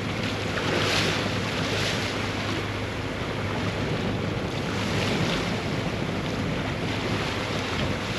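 Water rushing and splashing along a yacht's hull in choppy sea, with wind buffeting the microphone and a steady low engine hum underneath. Louder washes of spray come about a second in, again at two seconds and around five seconds.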